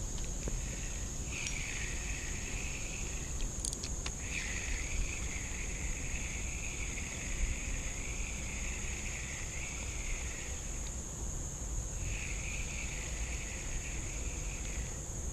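Insects singing: one steady high-pitched drone runs throughout, and a lower, wavering insect song swells in three long stretches with breaks between. A low steady rumble lies underneath.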